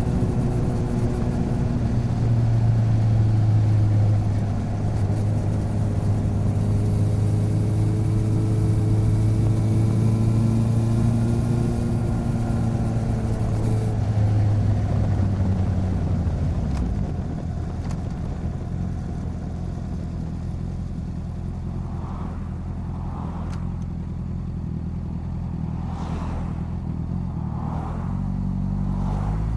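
Motorcycle engine running under way, heard close up from beside the bike: a steady engine note that eases off to a lower, quieter note about halfway through, then rises again as the bike accelerates near the end.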